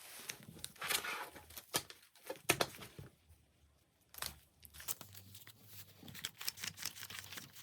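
Close handling noises: crinkling and rustling with irregular sharp taps and clicks, pausing briefly about three seconds in.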